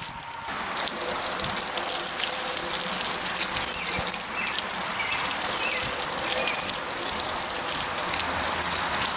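Garden hose spray hitting the painted steel body of a 1948 Chevrolet truck: a steady spattering hiss of water, weaker for the first half second and then even.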